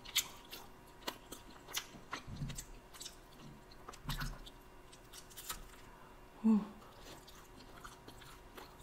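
Close-miked chewing and mouth clicks of a person eating deep-dish pizza, with a bite taken about four seconds in. A short low hum from the eater's voice comes about six and a half seconds in.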